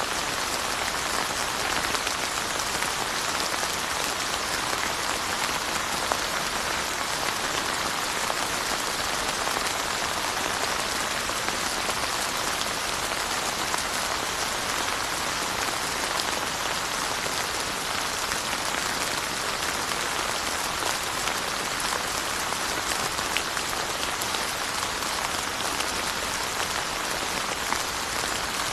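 Steady rain falling and pattering on surfaces, an even hiss with fine drop ticks.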